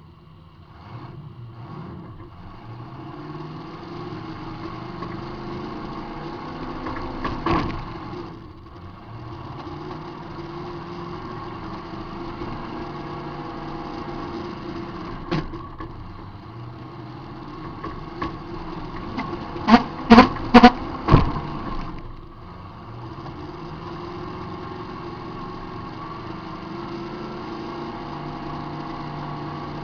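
A demolition derby car's engine running and revving, heard from inside the cabin, with sharp bangs from collisions: one about a third of the way in, one around the middle, and a quick run of about five loud hits about two-thirds of the way through.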